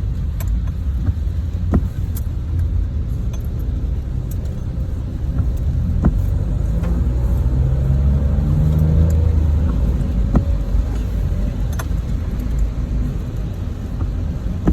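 Steady low rumble of a road vehicle, with scattered sharp clicks.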